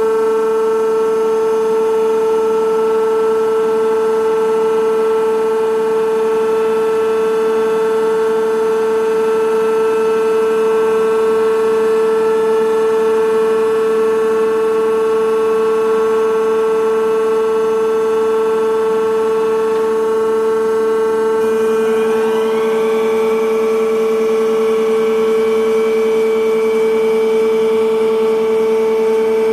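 Innocenti Mitsubishi FAF-140/95 CNC milling and boring machine running under power, a loud steady whine made of several tones. About two-thirds of the way through, some of the higher tones rise in pitch and settle at a new steady level, while the main tone holds.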